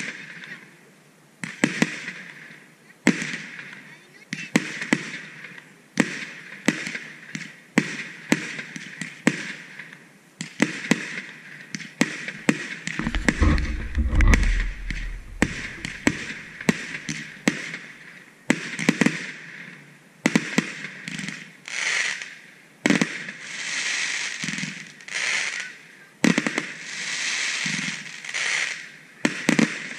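Fireworks display: aerial shells launching and bursting in quick succession, dozens of sharp bangs. A deeper, rumbling boom comes about halfway through, and the second half has longer stretches of rushing noise between the bangs.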